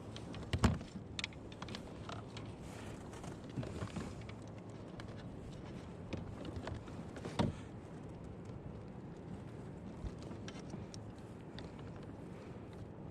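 Scattered light clicks and knocks from handling a fish and tackle on a fishing kayak, over a steady low background, with two sharper knocks, one about half a second in and one about seven seconds in.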